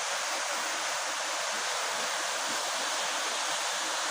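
Steady hiss of surf and waves washing in at an estuary mouth on an incoming tide, an even rush with no separate breaks standing out.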